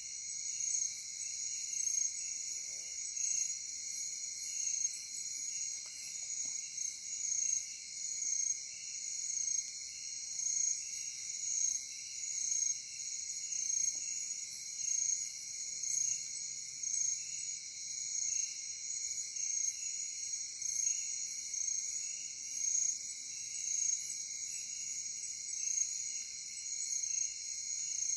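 Night-time forest insect chorus: several insects trilling steadily at high pitch, one of them pulsing in a rhythm of about once a second.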